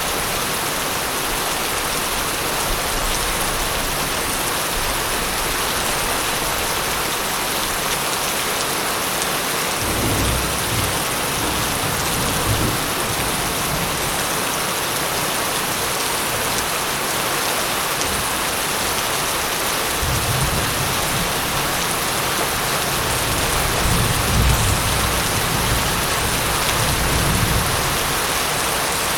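Steady rain falling, with low rolling thunder rumbling twice: once about a third of the way in, and again for a longer spell from about two-thirds of the way in until near the end.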